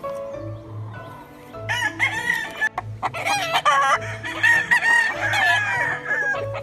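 Several gamefowl roosters crowing over one another, with clucking, starting about two seconds in, over soft background music with a steady beat.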